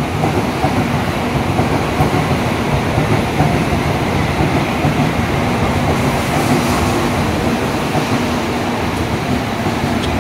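N700A Shinkansen train running in alongside the platform as it arrives, a loud, steady rumble of wheels and running noise with a faint steady hum underneath.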